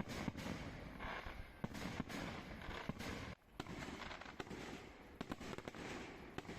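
Irregular sharp bangs and cracks, a few each second, over a steady background noise. The sound drops out abruptly for a moment about halfway through, then resumes.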